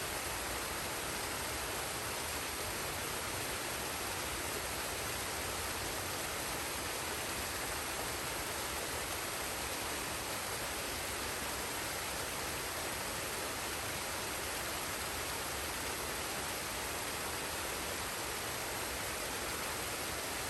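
Forest waterfall and stream water rushing in a steady, even roar of noise, unchanging throughout.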